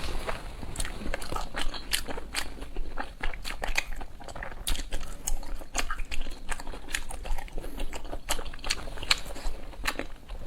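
A person chewing and biting food, with many irregular sharp crunches and wet smacks, a few each second.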